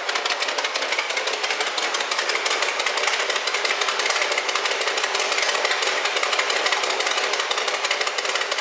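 1969 Lincoln Mark III's 460 V8 running steadily, with a rapid, even chatter that goes with its known exhaust manifold leak.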